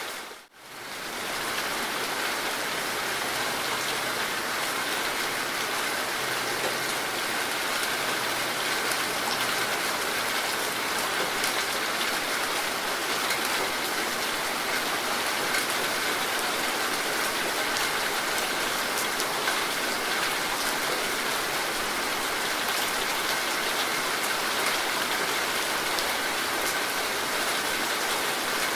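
Steady rain falling, an even wash of drops, that cuts out for a moment about half a second in and then carries on unchanged.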